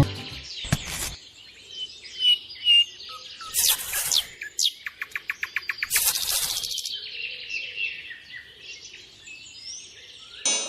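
Birds chirping and calling in high, short notes and whistles, with a quick run of rapid notes about halfway through.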